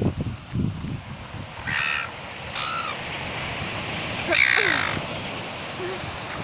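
A bird giving three harsh calls, about two, two and a half, and four and a half seconds in, the last one the loudest and longest.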